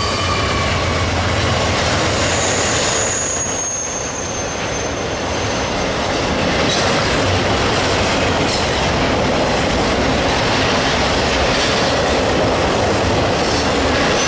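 Norfolk Southern freight train passing close by. The trailing GE AC44C6M locomotive's diesel hum fades over the first few seconds, then trailer-on-flatcar intermodal cars roll past with steady wheel-on-rail noise. A thin high wheel squeal comes in about three to five seconds in, and there are occasional clicks from the wheels later.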